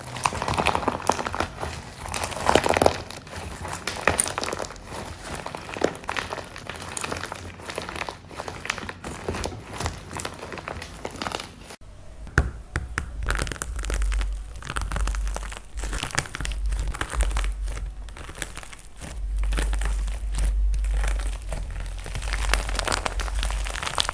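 Crunchy dried plaster clay being crushed and crumbled by hand, a dense run of small crackles and crunches. About twelve seconds in the sound changes abruptly, and a low rumble of handling runs under the crackling.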